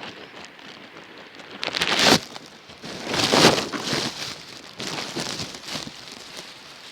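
Rain falling, a steady patter of many small drops, with two louder rushes of noise about two and three and a half seconds in.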